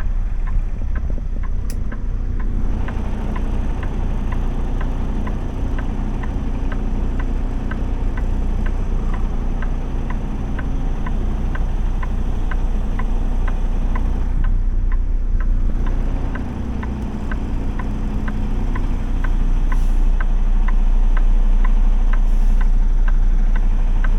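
Truck engine and road noise, a steady low rumble, with a light regular ticking about twice a second that starts a couple of seconds in. The rumble grows a little louder near the end.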